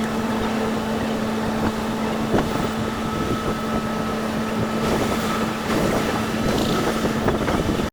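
Wind blowing across the microphone over a steady engine drone.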